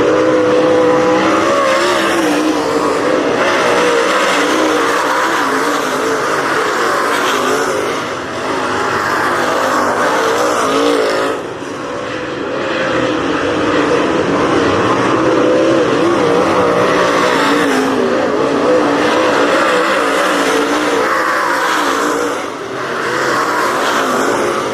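Dirt-track race car engines running at racing speed, their pitch wavering up and down as they go through the laps, with brief dips in level a few times.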